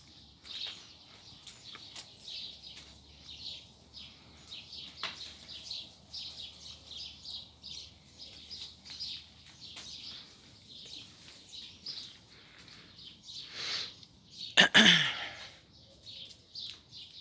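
Small birds chirping repeatedly. Near the end comes one short, loud sound that slides down in pitch.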